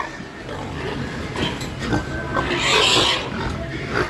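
Pigs calling, with a louder harsh cry about three seconds in.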